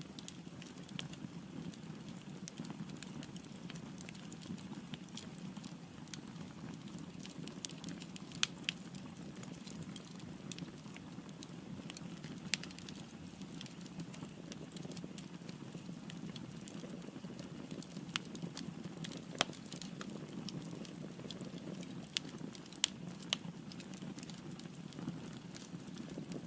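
Firewood burning in a fireplace: a steady low rush of flame with frequent small crackles and occasional sharper pops.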